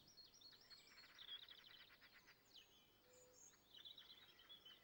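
Faint birdsong: many short chirps and whistled notes, with a quick trill about a second in.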